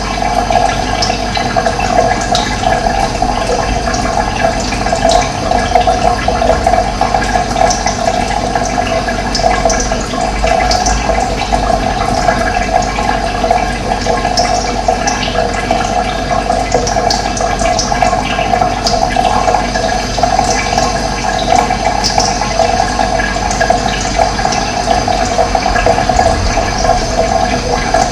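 Steady rush of running water, unbroken throughout.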